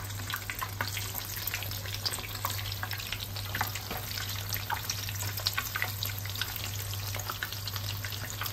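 Breaded mozzarella cheese sticks deep-frying in hot sunflower oil: a steady sizzle full of small pops and crackles.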